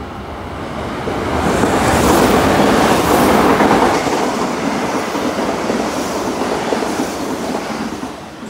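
Metro-North M8 electric multiple-unit train passing through the station without stopping, its wheels running on the rails. The sound builds about a second in, is loudest from about two to four seconds as the cars go by close, then slowly fades.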